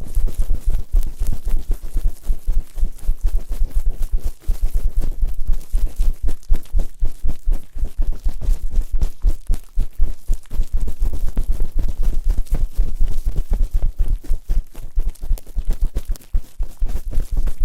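Fast, continuous rubbing and scraping right on a microphone's ears, a dense run of quick strokes with a heavy low rumble.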